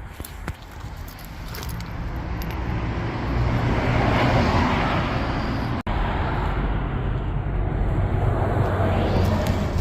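A motor vehicle running, growing louder over the first few seconds, with a sudden brief cut-out about six seconds in before it carries on.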